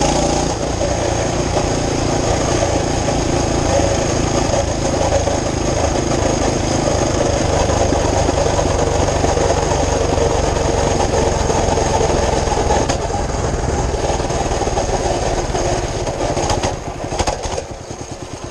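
Mini bike's small engine running steadily, then faltering and dropping off unevenly near the end.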